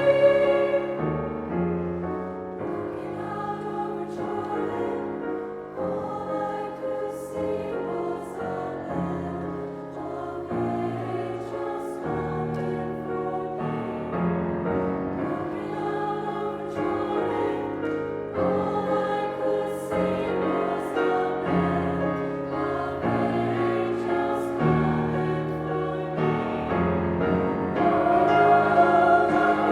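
A choir singing a slow piece with piano accompaniment, the voices holding long notes that shift every second or so, swelling louder near the end.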